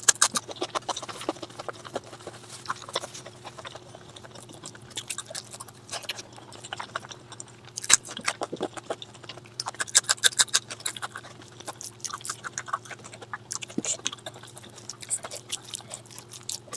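Close-miked eating sounds: a person chewing and crunching food in bursts of rapid crackling bites, loudest around eight and ten seconds in.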